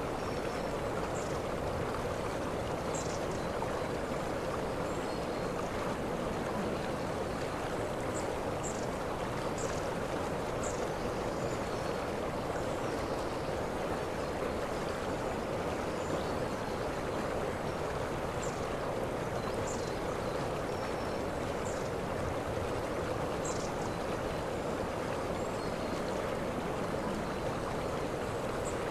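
Waterfall's water rushing steadily, with faint, brief high-pitched chirps every second or two.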